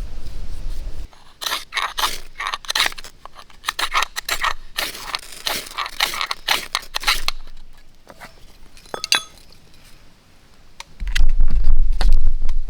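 Close handling noises: a quick run of scraping, clicking and crunching sounds, then a single ringing clink about nine seconds in, and a loud low rumble near the end.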